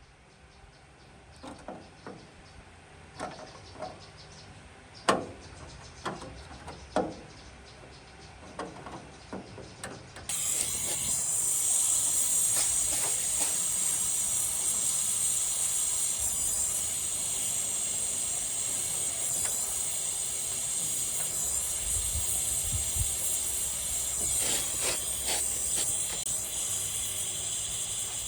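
Scattered knocks and taps from hand work on metal, then about ten seconds in a loud steady hiss starts abruptly, as from a pressurised air or spray tool running continuously.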